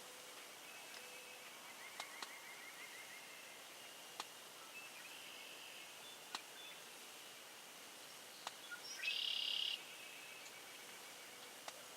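Faint outdoor ambience with distant songbirds calling: a quick stuttering run of chirps early on and a short, louder high buzzy call about nine seconds in. A few sharp clicks are scattered through it.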